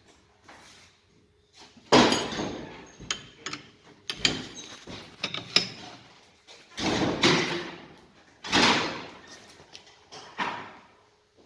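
A handful of loud, sudden metal clanks and knocks, each trailing off, from hand-tool work on a car steering rack and its tie rods.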